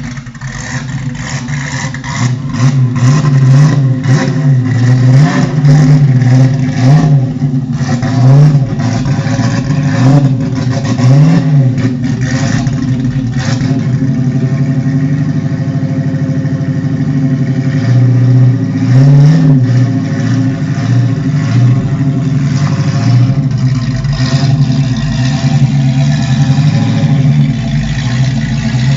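TVR Chimaera 450's V8 engine running. It is blipped up and let fall back repeatedly, about six times in the first dozen seconds and once more about two-thirds of the way through, and settles back to a steady idle in between and near the end.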